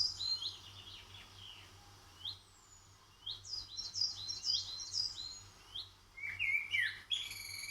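A songbird singing: short, high chirping notes that slide downward, with a quick run of repeated notes in the middle and some lower notes near the end.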